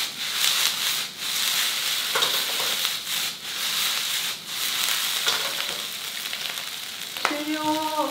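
Fried rice sizzling in a hot iron wok pan over a gas flame as it is tossed and stirred with a spatula, a steady hiss that rises and dips in level as the pan moves.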